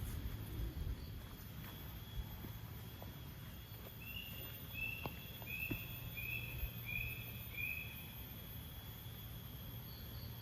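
Forest ambience with a steady high insect drone over a low, even background noise. In the middle comes a run of six short calls from an animal, evenly spaced, about one every 0.7 seconds.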